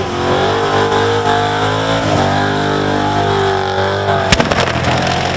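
Holden Commodore burnout car's engine held at high revs in a burnout, its pitch wavering up and down as the throttle is worked. About four seconds in comes one sharp bang, the loudest sound here.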